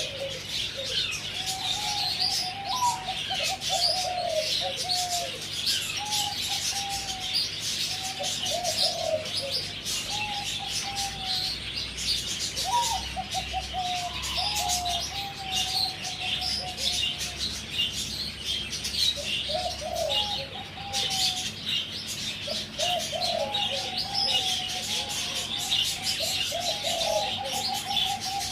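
A young zebra dove, about four months old, cooing in short trilled phrases that repeat every second or two, with pauses around 17–19 s in. Small birds chirp busily in the background throughout.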